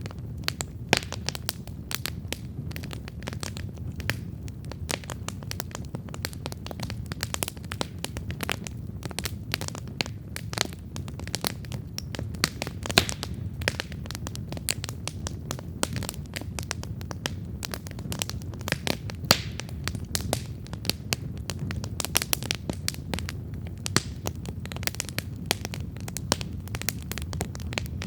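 Wood campfire crackling and popping steadily: dense irregular snaps of burning wood, a few sharper pops standing out, over a low steady rumble of the flames.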